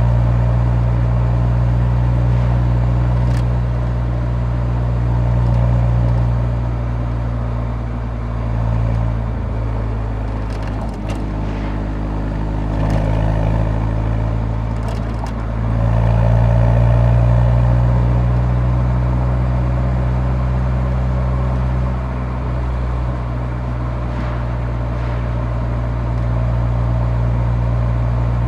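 Exhaust note of a Nissan 180SX's SR20DE four-cylinder engine at the muffler while driving: a steady low drone that eases off about eight seconds in, shifts in pitch, and picks up again a little after halfway.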